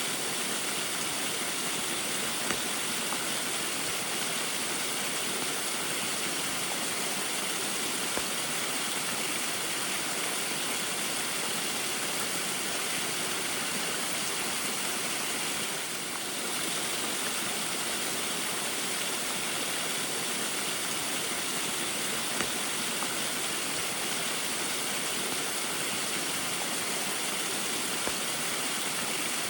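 Small waterfall splashing steadily in the rain, a continuous rush of falling water with occasional faint drip clicks.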